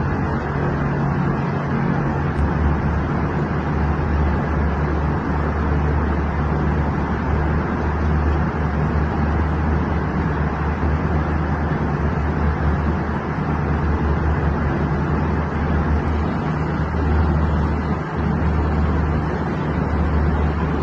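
Steady drone of an airliner cabin: engine and airflow noise with a strong low hum.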